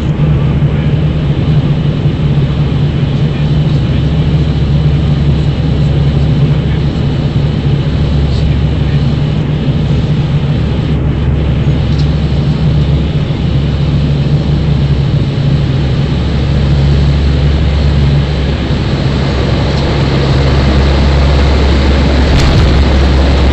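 Airliner engines heard from inside the passenger cabin: a steady low drone with a constant hum, growing a little louder near the end.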